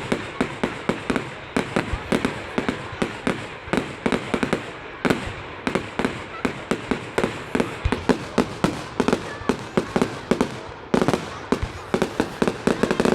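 Fireworks display going off in a fast, continuous barrage of sharp bangs and crackles, several each second.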